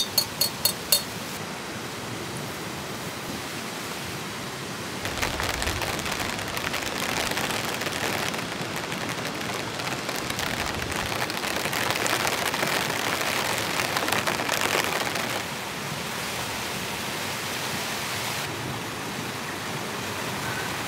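Heavy rain falling steadily, swelling into a harder downpour about five seconds in and easing back after about fifteen seconds. Four short sharp ticks sound in the first second.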